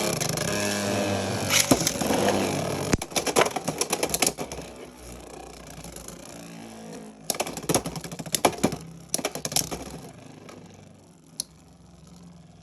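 Two Beyblade X spinning tops whirring in a plastic stadium just after launch, with bursts of sharp clacking as they collide again and again. The spin noise fades as they lose speed in a stamina battle.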